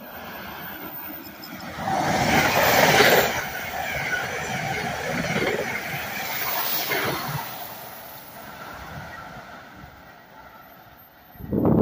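Passenger train running through the station at speed under catenary: the rush and wheel noise swell as the lead car arrives, roll on past, then fade as the train recedes. A sudden loud noise starts right at the end.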